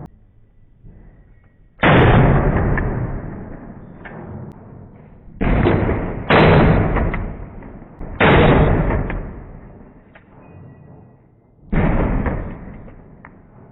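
Gunfire and bullet impacts at a shooting range, played back slowed to 15–20% of normal speed, so each crack becomes a deep boom. Five sudden booms, two of them close together mid-way, each fading away over a couple of seconds.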